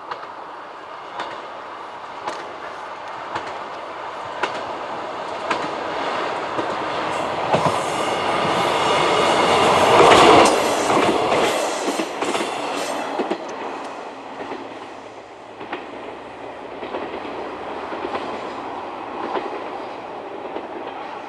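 A VR passenger multiple-unit train passes over a level crossing. Its running noise and wheel clatter build to a peak about halfway through, then fade as it moves away. A level-crossing bell strikes about once a second.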